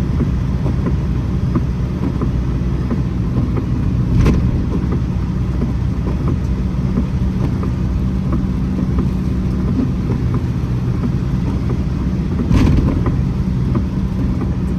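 Steady low hum of a running vehicle engine under rain, with a dense scatter of small drop ticks. Two louder thumps come about four seconds in and near the end.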